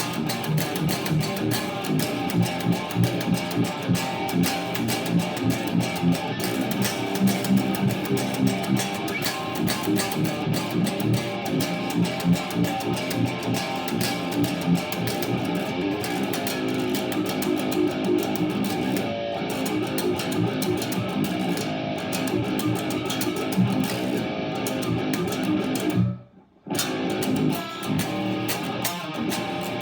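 A T.W. Smith BTMN 7-string electric guitar played through a Positive Grid Spark 40 amp, with fast picked metalcore riffs. The playing breaks off for about half a second near the end, then starts again.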